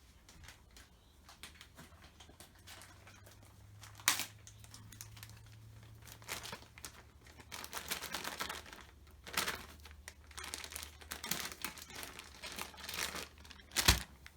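Plastic wet-wipes packet crinkling and rustling as it is handled and a wipe is pulled out. There is a single knock about four seconds in and another sharp knock near the end.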